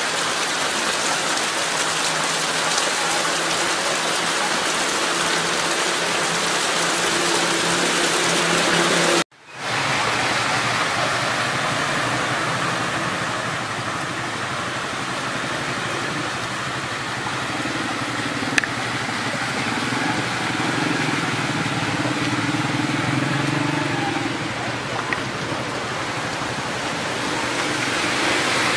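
Heavy rain falling as a steady hiss. About nine seconds in it cuts off abruptly and switches to rain and water running on a flooded street, with a low vehicle engine hum underneath.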